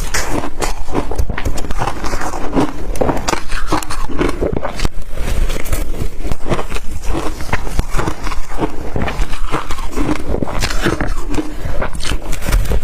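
Blender-crushed ice being bitten and chewed close to the microphone: a loud, dense run of crackling crunches.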